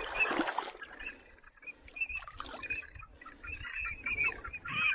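Ducks calling: a run of short, repeated calls that grows busier toward the end.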